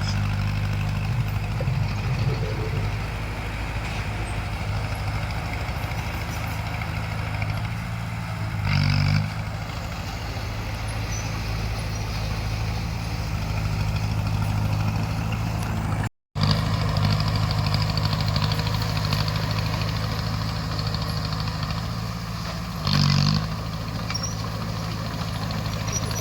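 Crawler bulldozer's diesel engine running steadily, with two short louder surges, about a third of the way in and near the end.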